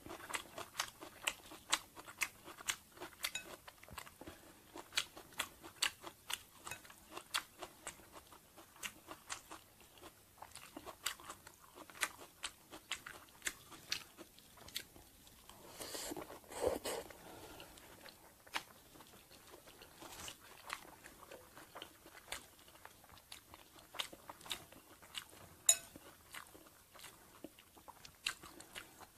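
Close-up chewing and crunching of crispy Banh Chhev (Cambodian rice-flour crepe) with fresh lettuce and greens: many quick, sharp crunches throughout, and one longer, louder sound about halfway through.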